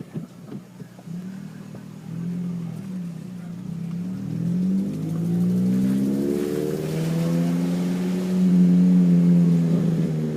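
Scion tC's four-cylinder engine through a newly fitted aftermarket exhaust, driving and accelerating. The engine note rises, dips, then climbs again, and is loudest and steadiest near the end.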